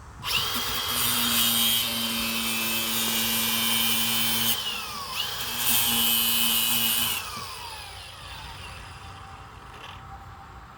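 Electric power tool motor run twice: a loud whine of about four seconds, then a shorter one of about two seconds, each winding down with a falling pitch when released.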